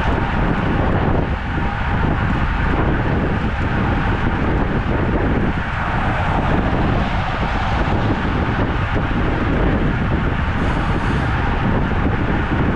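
Steady wind rushing over the microphone, with tyre and road noise, on a road bicycle riding along.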